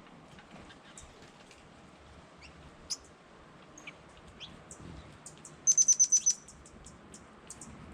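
Birds calling: scattered short, high chirps, then a quick run of about seven loud, sharp high notes a little past the middle.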